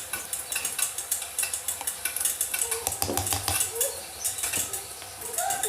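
A spoon stirring and scraping through a thick mash of blended sugarcane in a dish, with many small irregular clinks.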